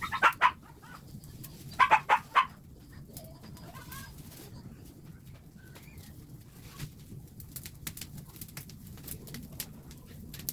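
A bird calling in two short bursts of about four quick notes each, one at the start and one about two seconds in. After that come faint scattered chirps and light clicking.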